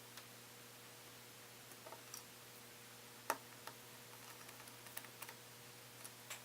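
Scattered light clicks and taps of small metal parts and a screwdriver being handled inside an open MacBook Pro during reassembly, the sharpest click about halfway through, over a faint steady hum.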